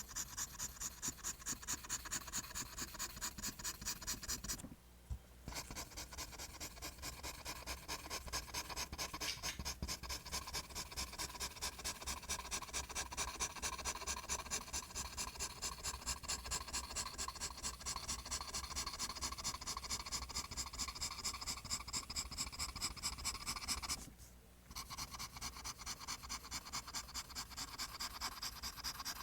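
Pencil scratching on paper in quick, even, repeated line strokes, about four a second, with two short pauses.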